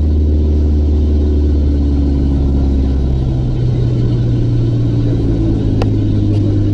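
Mooney M20's piston engine and propeller droning steadily in the cabin on final approach. Its low note shifts about halfway through, with a short click near the end.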